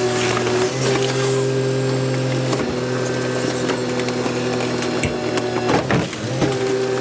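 Rear-loader garbage truck's hydraulic hopper compactor running: a steady engine-and-pump hum that shifts in pitch a few times as the packer works through its cycle. Sharp cracks and snaps of rubbish being crushed come through, most clearly near the middle and near the end.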